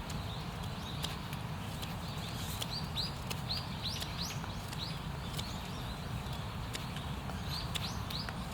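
Small birds calling: runs of short, high chirps that rise in pitch, with scattered sharp clicks and a steady low rumble beneath.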